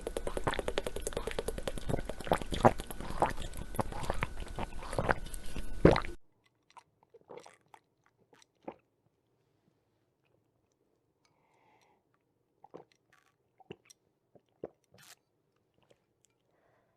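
Close-up crunchy chewing: a dense run of crackling, crunching clicks for about six seconds that cuts off abruptly. Faint, scattered small clicks follow.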